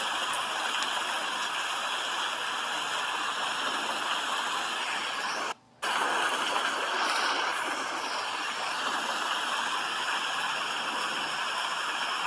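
Steady rain falling, an even hiss with no let-up except one very short break about halfway through.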